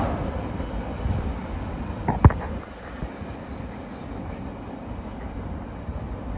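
Freight train running past as a steady low noise, with one sharp knock about two seconds in, after which the sound gets a little quieter.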